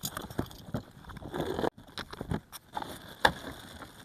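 Cardboard box and packaging being handled during the unboxing of toy tractors: irregular rustling with scattered light knocks, and a brief sudden gap about two seconds in.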